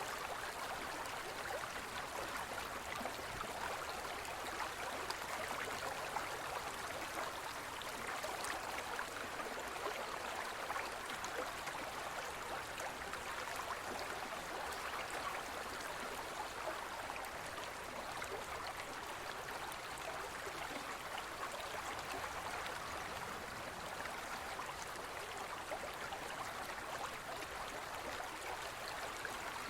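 Gentle forest stream flowing steadily over stones, a continuous babbling rush of water with fine splashing detail.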